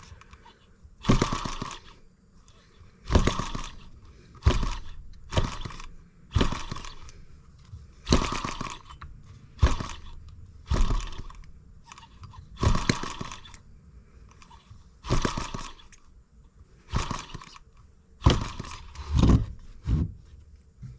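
M25 sideshaft gas engine running, firing loud single power strokes at uneven intervals of one to two seconds, each dying away as the flywheels coast. The owner reckons it acts like it is running a little rich.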